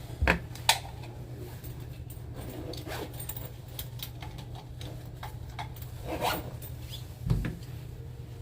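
Scattered clicks and rustles of handling close to the microphone, over a steady low hum.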